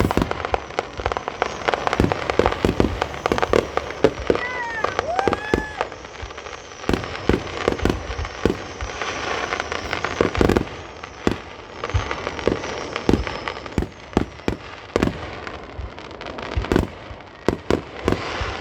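Fireworks finale: a rapid, irregular string of shell bursts, dozens of bangs and booms with crackling between them.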